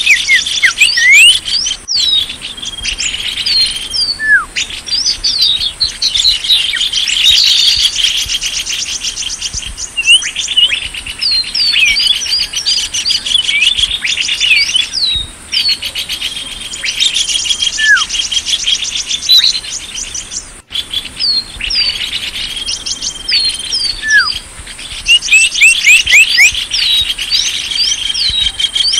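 Lure recording of small songbirds calling: a dense, loud run of high chirps, quick down-slurred whistles and rapid trills, broken by a brief cut about two seconds in and another past the middle. It is a bird-lure call, played to draw small birds in.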